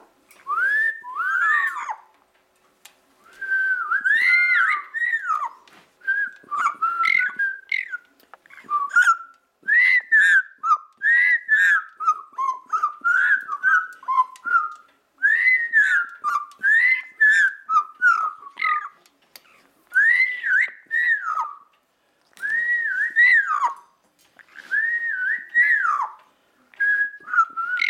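A pet parrot whistling in a long string of short phrases, each made of notes that slide up and down, with brief pauses between them.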